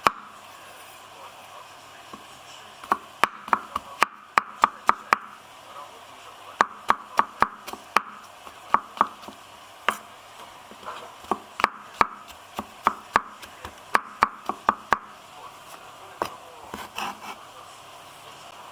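Knife chopping on a cutting board: runs of sharp knocks at about three a second, then a few scattered cuts near the end.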